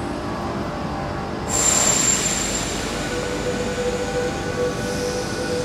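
Sydney Trains electric suburban train in an echoing underground station. About a second and a half in there is a sudden hiss with a high-pitched squeal that fades over a couple of seconds, then a steady hum.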